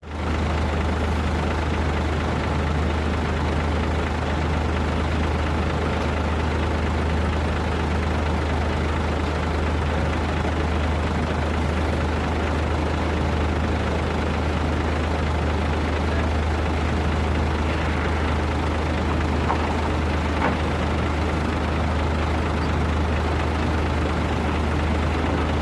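Concrete mixer truck's diesel engine running steadily with a deep, even low hum.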